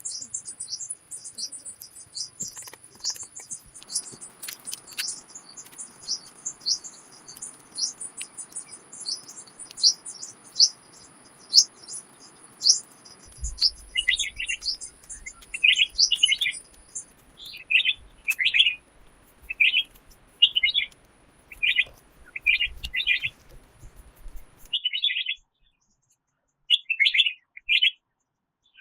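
Small birds calling. For about the first half there is a fast run of very high chirps over a thin steady high tone. Then a repeated lower call, roughly once a second, takes over; it pauses briefly near the end and starts again.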